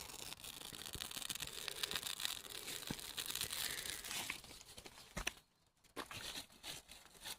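Dry birch bark being crumpled and torn by hand, a dense crinkling and crackling for about four seconds. Then comes a sharp click, a short pause, and more crinkling near the end.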